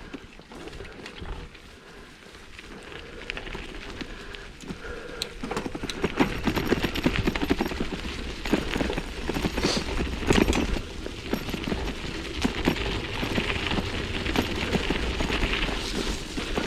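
Mountain bike rattling and clattering as its tyres crunch over a rough dirt trail, getting louder and busier about five seconds in.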